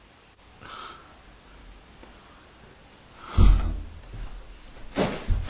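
A person breathing out close to the microphone: a faint breath about a second in, a louder gust of breath that thumps low on the mic about three and a half seconds in, and a sharp intake of breath near the end.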